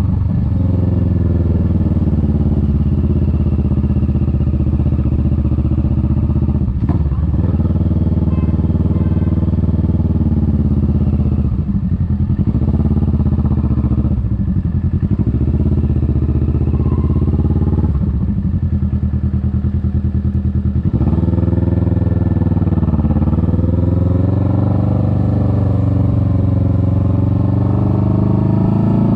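Kawasaki Vulcan S 650 parallel-twin engine running under way, its note rising and falling several times with throttle and gear changes.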